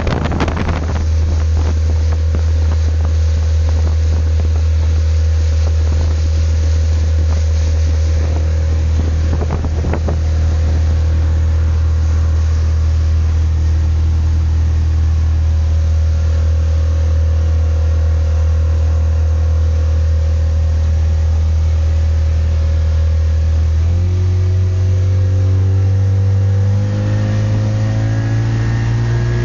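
Yamaha 60 hp two-stroke outboard motor running at a steady speed, then changing pitch near the end and rising as it is throttled up.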